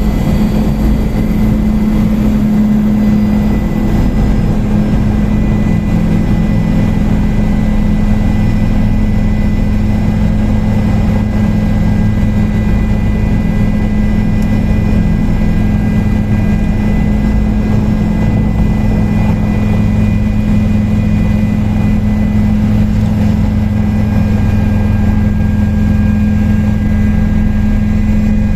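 Helicopter in flight, heard from on board: a loud, steady drone of the rotors and engine with a low hum and a few thin high whining tones, unchanging throughout.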